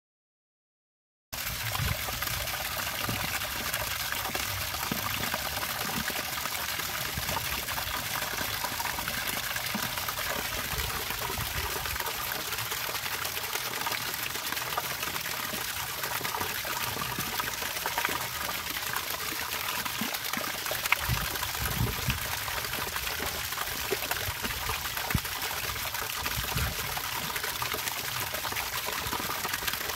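Running water trickling and splashing steadily. It starts suddenly about a second in, with a few sharper splashes standing out later on.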